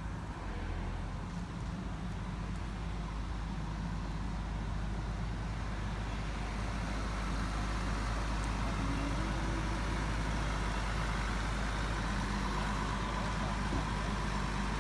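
Truck engine running steadily while moving a trailer, growing a little louder about seven seconds in.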